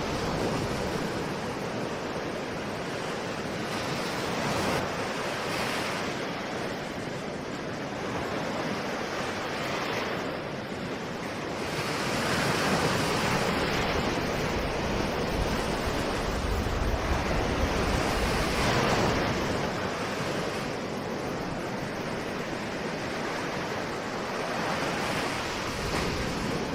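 Ocean waves washing ashore in a continuous surf, each wash swelling and easing every few seconds, with a rumble of wind on the microphone.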